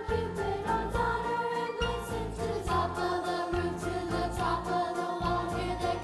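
A school choir singing a Christmas song over accompaniment with a bass line, steady percussive strikes and jingling bells.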